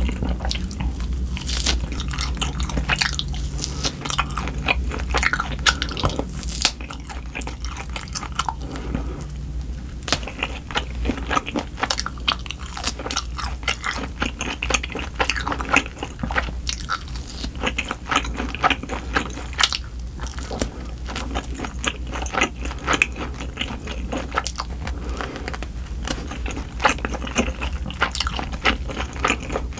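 Close-miked chewing and biting of grilled oxtail meat, with many quick, irregular mouth clicks and smacks.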